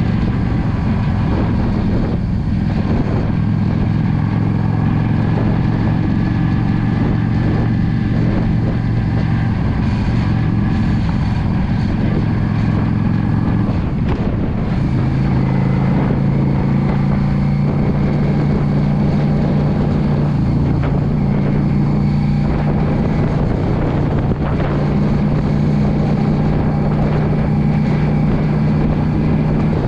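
2016 Yamaha V Star 650 cruiser's V-twin engine running steadily under way, with wind rushing over the microphone. About halfway through the engine note briefly dips, then settles at a higher pitch.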